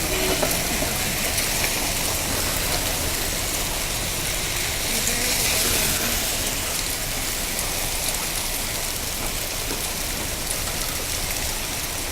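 Heavy rain with hail in a steady hiss, with scattered small ticks of hailstones striking surfaces.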